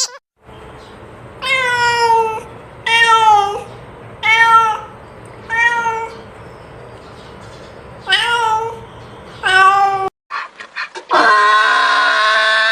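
An animal calling: six short, pitched cries a second or two apart. After a break comes a few clicks, then a different, longer, drawn-out cry near the end.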